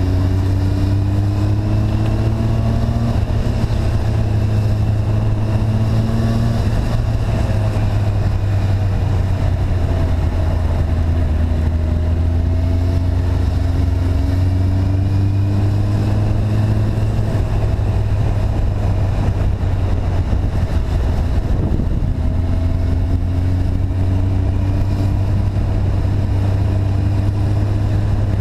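Motorcycle engine running under way with a steady low drone. Its pitch climbs slowly over several seconds and drops back a few times, as at gear changes.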